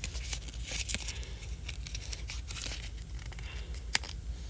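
Printed sticker paper being peeled and handled: irregular crinkling and tearing with scattered small clicks, a couple of sharper ticks about a second in and near the end.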